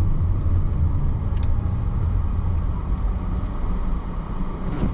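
Car interior road noise while driving: a steady low rumble of the engine and tyres, easing slightly near the end.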